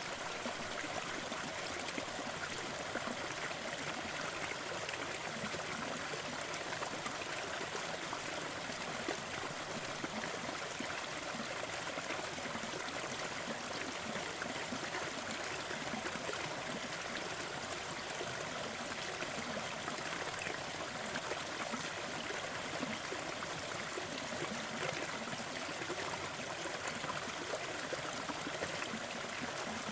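Waterfall: steady rushing and splashing of falling water, an even hiss with no breaks.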